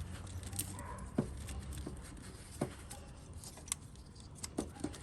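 Light, irregular clicks and taps of hand tools being fitted and worked at a spark plug in a V8 engine bay, about half a dozen over the few seconds, over a low steady hum.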